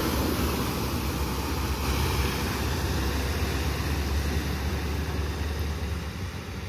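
Heavy diesel truck with trailer running, a steady engine drone mixed with tyre and road noise, fading slowly toward the end.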